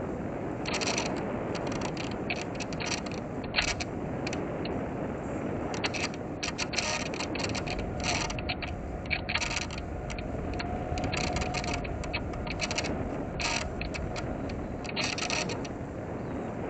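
Onboard sound of a small electric RC model plane gliding with its motor off: a steady rush of air over the airframe, broken by frequent short buzzes from the micro servos moving the control surfaces.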